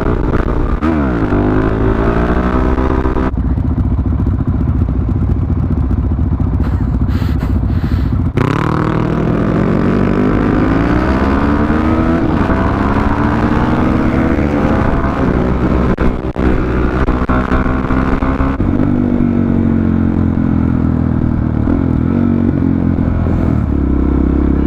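Suzuki DR-Z400 supermoto's single-cylinder four-stroke engine running under the rider. Its pitch climbs and drops again and again as it accelerates and shifts through the gears.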